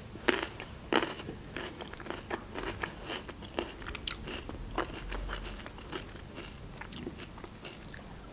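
Close-miked chewing of crunchy raw red pepper: irregular crunches and mouth clicks, with a fresh bite near the end.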